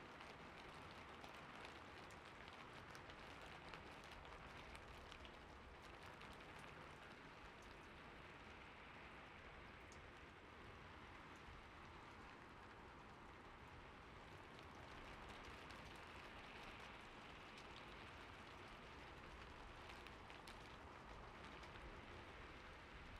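Faint steady rain, with a few scattered light ticks.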